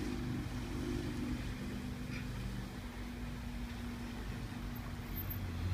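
Street traffic heard through an open window: a steady low engine hum.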